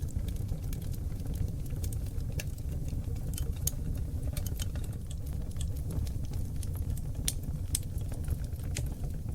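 Wood fire of seasoned oak logs burning in a fireplace: a steady low rumble of flame with irregular sharp crackles and pops throughout.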